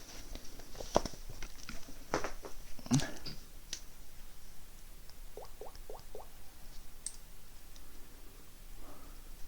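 Handling of a tablet and stylus: scattered light clicks and knocks, the loudest about three seconds in, then a quick run of four small taps a little later.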